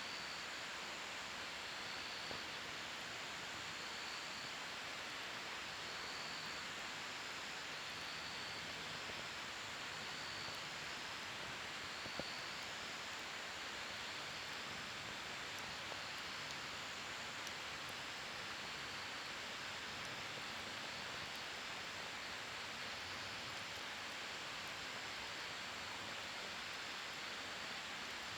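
Wood campfire burning with a steady hiss and sparse small pops, one sharper crack about twelve seconds in. A faint high chirp repeats every second or two in the background.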